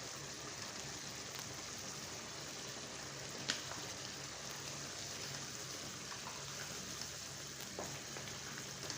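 Chicken in coconut milk simmering in a pan, a steady sizzling and bubbling. A single sharp click about three and a half seconds in.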